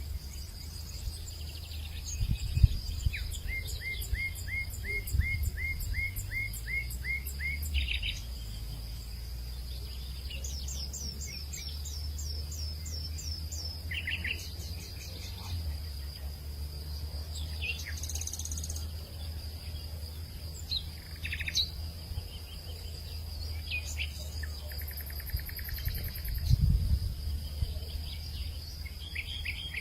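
Birds calling in the countryside. One sings a quick series of about ten rising notes, and another a run of falling notes a few seconds later, over a steady high insect drone. Low wind rumble on the microphone swells twice, about three seconds in and near the end.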